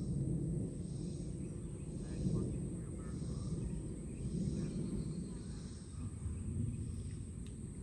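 Gusty wind rumbling on the microphone ahead of an approaching thunderstorm. Behind it runs a faint steady high-pitched insect drone, with a few faint chirps.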